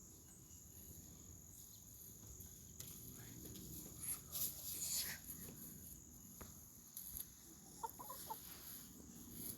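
Hen clucking faintly, with a quick cluster of short clucks near the end.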